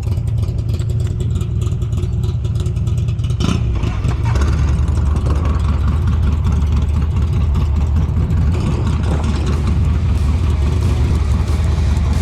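Harley-Davidson motorcycle riding on the road, its engine running with a steady low rumble that drops lower about four seconds in.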